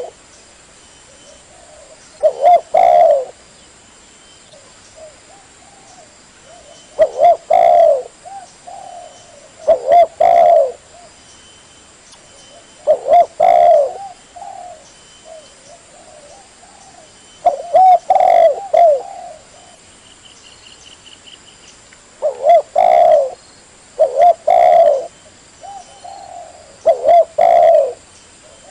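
Spotted dove (tekukur) cooing: short low coo phrases repeated every few seconds, eight in all. There is a faint high trill about two-thirds of the way through.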